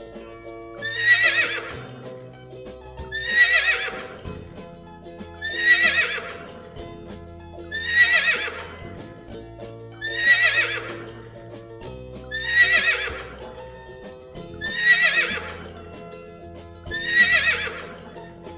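Horse whinnying, the same neigh repeated about every two seconds, eight times, over background music with sustained notes.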